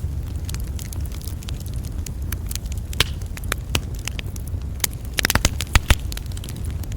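Campfire crackling: a steady low rumble of wind and flame under scattered sharp pops and snaps of burning wood, with a quick cluster of louder pops a little past five seconds in.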